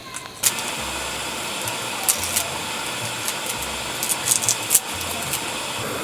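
Food sizzling on a hot pan: a steady hiss that starts abruptly about half a second in, with scattered crackles and pops of spitting fat.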